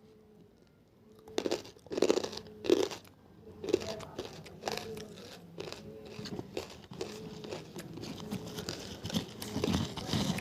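Pieces of tabasheer (banslochan, bamboo silica) being bitten and chewed: a few loud crunches starting about a second and a half in, then steady crunchy chewing with a louder crunch near the end.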